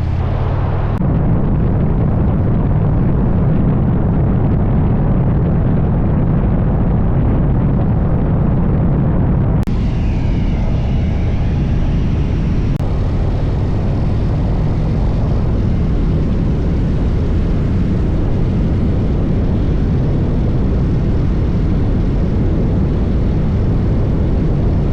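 Motorcycle riding at road speed: a steady, loud rush of wind over the microphone with the engine running underneath.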